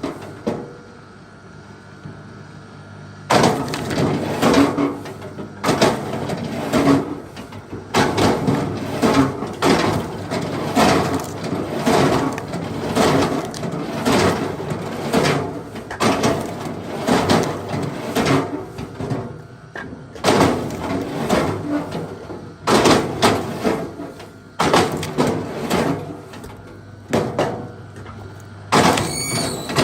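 Tools working wood: a dense run of quick, irregular knocks and scrapes, broken by a few short pauses, with a brief squeal near the end.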